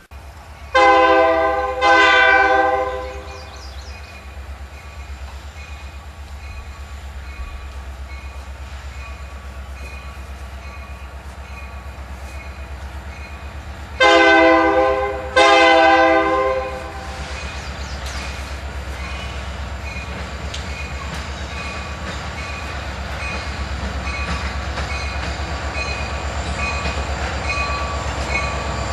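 Diesel freight locomotive sounding its air horn: two blasts of about a second each, then two more about twelve seconds later, over the low steady rumble of the train. From about halfway a faint regular ticking runs under it.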